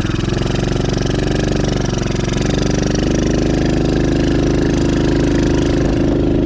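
Dirt bike engine picking up from a throbbing idle and running at steady higher revs, with a brief easing off about two seconds in.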